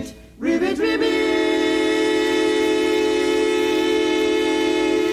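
Cartoon frog voices singing in harmony: they slide up into one long held chord of several notes, which stops near the end and fades away.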